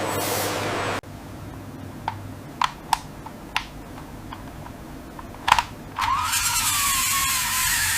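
Factory machinery in three cut-together stretches: a steady loud hiss, then after a sudden cut a few sharp clicks and snaps over quiet background, then a noisy machine running with a wavering whine from about six seconds in.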